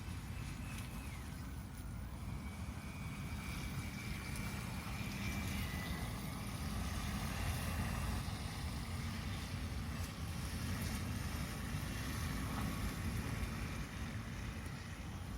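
Wind buffeting the microphone: a steady low rumble, with a faint thin high tone for a few seconds near the start.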